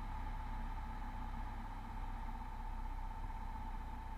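Steady low drone of the Beechcraft Bonanza V35's engine and propeller on final approach, heard muffled through the headset intercom, with a faint steady whine above it.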